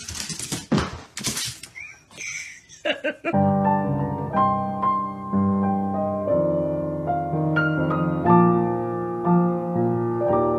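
For about three seconds there is rough, uneven noise, then piano music with a steady run of held notes starts and carries on.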